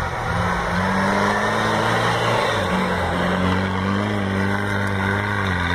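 Off-road 4x4's engine working under load in soft sand, its pitch dipping about two and a half seconds in, picking up again and easing off near the end, over a steady rushing noise.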